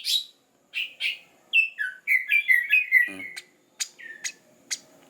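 Small songbirds chirping in short high calls, with a quick run of chirps about two seconds in and a few sharp clicks near the end.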